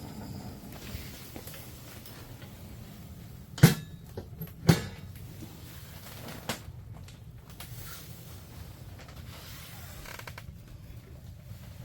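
Two sharp knocks about a second apart, then a fainter one, over a low steady background noise.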